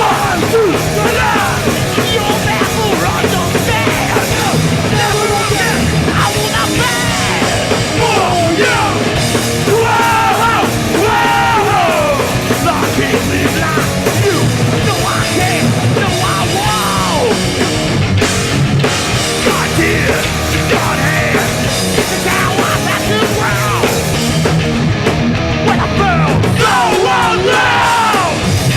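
Hardcore punk band playing live: distorted electric guitars, bass and drums at full volume, with shouted vocals.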